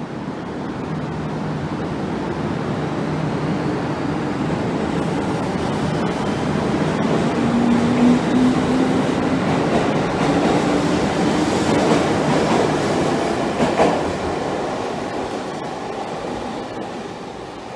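Electric commuter train pulling out of a station: a motor hum that steps up in pitch as it gathers speed, under rumbling wheels. The noise swells as the cars pass, with sharp wheel clacks at rail joints, then fades as the train moves away.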